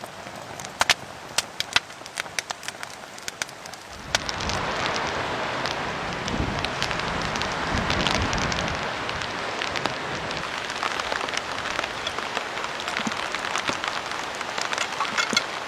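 Rain falling, with scattered sharp drops in the first few seconds. About four seconds in it becomes a louder, denser rush.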